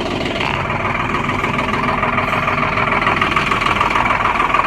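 Semi truck's diesel engine idling just after a cold start, running a little rough, its level rising slightly as it settles.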